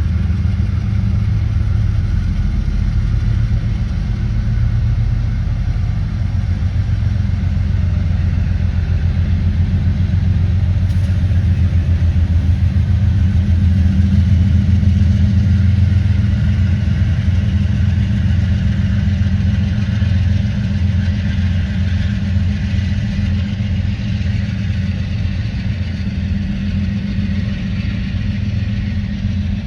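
Diesel locomotive engines running with a steady low rumble and rhythmic pulsing. The sound swells to its loudest about halfway through and eases off toward the end.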